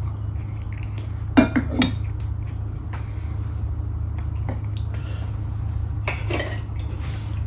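Tableware clinking during a meal: three quick sharp clinks about a second and a half in, then a few softer taps and a brief rustle near the end, over a steady low hum.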